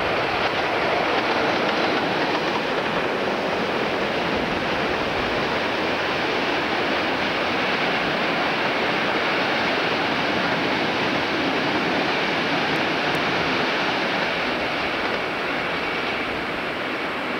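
Diesel-hauled ballast train of bogie hopper wagons passing and running on, a steady, loud rumble of locomotive engines and wagon wheels on the rails, easing slightly near the end.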